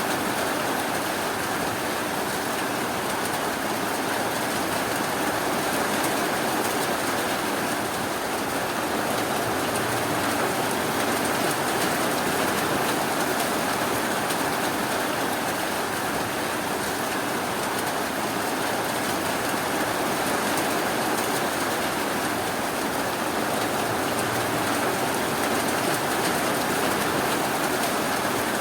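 Steady rainfall: a dense, even hiss of rain with no breaks or thunder.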